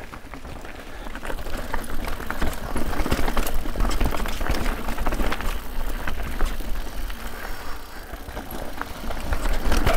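Guerrilla Gravity The Smash mountain bike riding down a dirt trail: tyre noise over dirt and rocks with frequent clicks and rattles from the bike, over a low wind rumble on the microphone. It eases briefly about a second in and again around seven seconds in.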